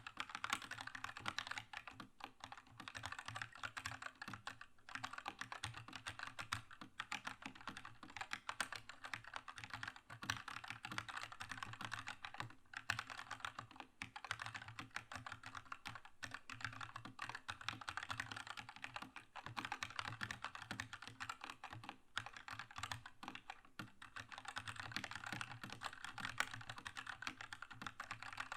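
Continuous typing on a Keychron K2 mechanical keyboard with red linear switches: a fast, dense patter of key presses and returns, broken by a few brief pauses.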